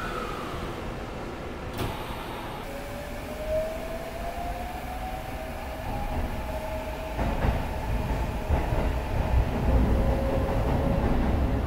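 Electric train running and gathering speed: a faint whine rises over several seconds while the rumble of wheels on the track grows louder in the second half. There is a sharp click about two seconds in.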